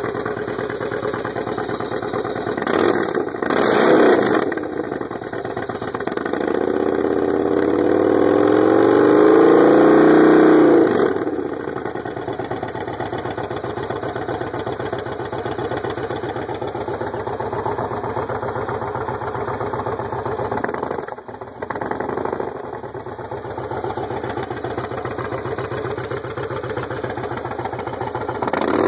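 Engine running through its exhaust at idle, with two quick throttle blips about three and four seconds in. Then comes a longer rev that climbs, is held for a few seconds and falls back to a steady idle.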